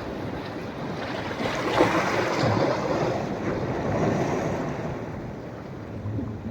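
Sea waves on a beach at a rising tide: a wave breaks about two seconds in, and its wash runs on for a couple of seconds before fading.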